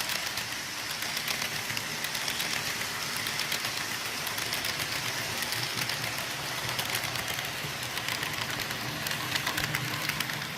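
Model train running on the layout: a steady low engine-like hum with a dense patter of small clicks from the wheels on the track.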